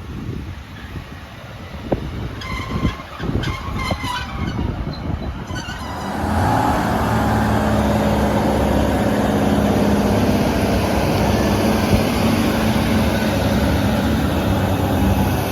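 A few short high beeps, then about six seconds in a Class 156 diesel multiple unit's Cummins engines rise to a loud, steady run as the train pulls away from the platform.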